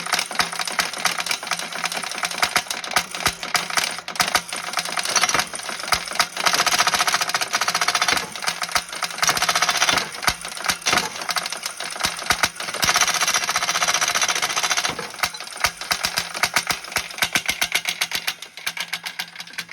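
Small lawn mower engine running roughly with a rapid knocking rattle, surging louder three times. The engine has been shot and is suspected to have a bent connecting rod.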